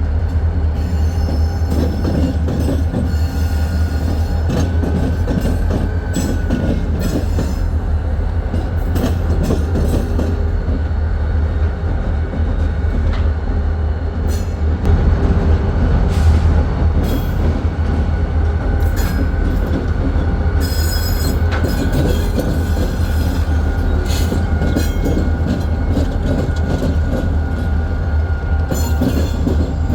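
Freight train rolling past: railcar wheels rumbling steadily on the rails, with a faint thin wheel squeal and scattered short high-pitched squeaks and clicks from the wheels.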